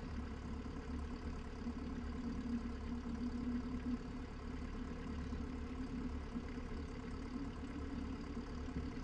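Cessna 172's piston engine running steadily at low taxi power, a low, even drone.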